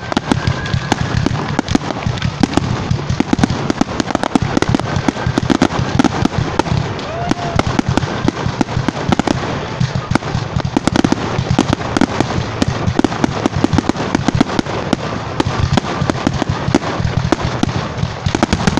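Fireworks going off without pause: a spark fountain hissing under a dense, rapid crackling and popping of small bursting stars.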